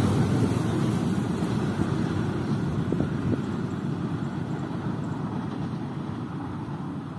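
Passenger train moving away after passing, its rolling rumble on the rails fading steadily, with two faint clicks about three seconds in.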